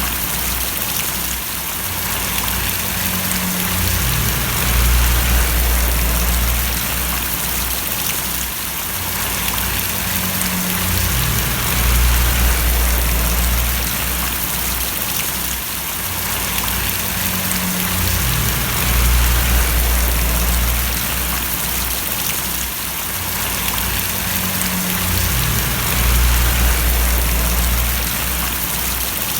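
Steady rain falling and splashing, with a low hum underneath that swells and eases about every seven seconds.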